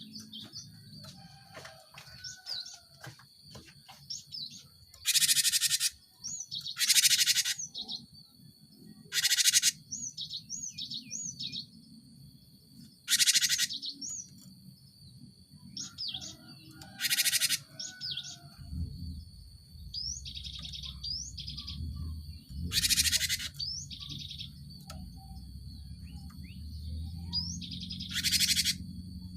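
Cinereous tit (gelatik batu) calling: seven loud, harsh, buzzy calls, each about half a second to a second long and a few seconds apart, with short whistled notes in between. A thin steady high tone runs throughout, and a low hum comes in about two-thirds of the way through.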